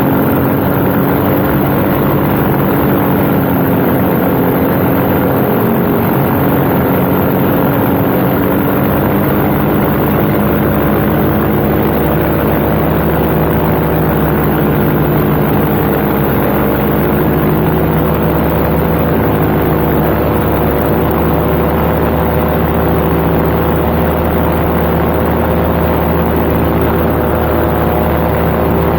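Paramotor engine and propeller running steadily in flight, heard from the pilot's seat, with wind noise; the engine note drifts slowly in pitch.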